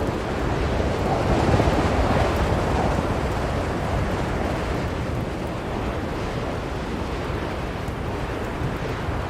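Blizzard wind blowing steadily as a deep, rushing noise, swelling briefly in the first few seconds and then easing back.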